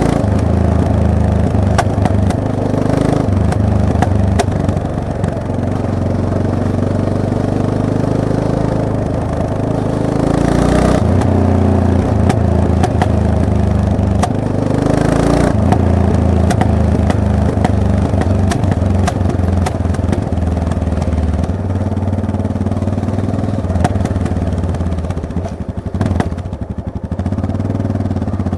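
Yamaha MT-03 motorcycle engine running on the move, its revs climbing and dropping with the throttle and gear changes. Frequent short knocks and clatter come from riding over rough ground.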